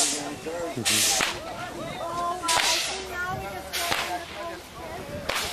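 Old coal-fired steam locomotive chuffing slowly: a hissing rush of exhaust steam about every second and a half, with faint voices or music under it.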